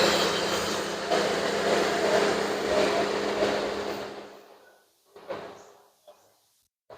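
Steady background noise with a low hum that fades out about four seconds in, followed by a few short knocks.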